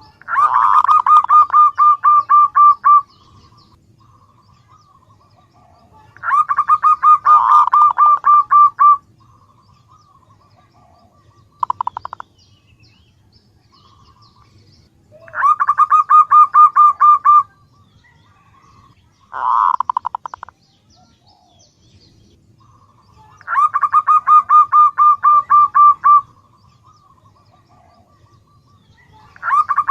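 Female zebra dove (perkutut) calling to males: rapid runs of short staccato notes, each run about three seconds long, repeated four times with two shorter bursts between, and a fifth run starting at the very end.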